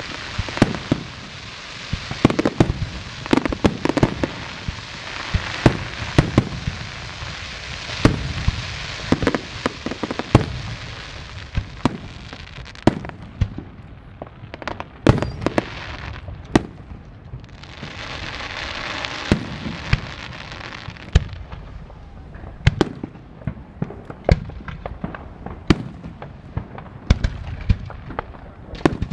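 Fireworks finale: aerial shells bursting in rapid succession, sharp booms over a continuous crackle and hiss, with a short lull about halfway through before a dense burst of crackling.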